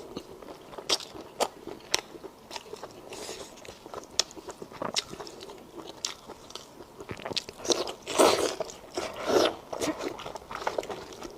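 Close-miked eating: a person biting and chewing food with crunchy, clicking mouth sounds, the loudest crunches coming about eight to nine and a half seconds in.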